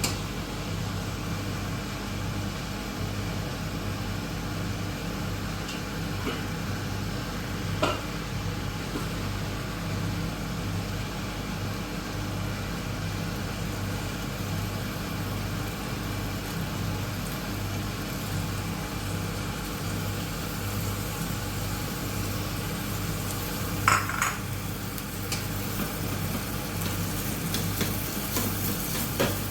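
Food sizzling in a pan while it is stirred, with a couple of sharp metal clinks of a spoon against the pot, the loudest about three-quarters of the way through. A steady low pulsing hum runs underneath.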